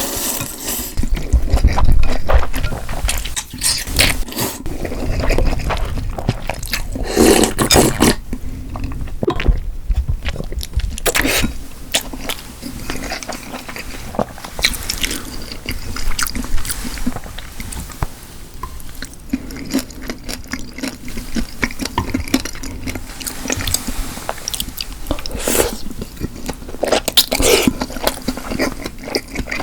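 Close-miked eating: wet chewing and mouth sounds made up of many small clicks and smacks, with louder bursts near the start and around seven seconds in.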